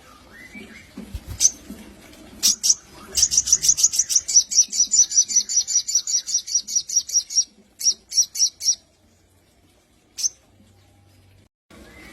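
Sogon songbird calling: a few sharp high chips, then a fast trill of evenly repeated high notes, about eight a second, for some four seconds, a short burst of four more, and one last chip.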